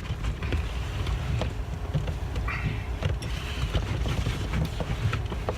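A steady low rumble of wind on the microphone, with faint scattered clicks and taps of a car's interior door trim being handled and worked loose.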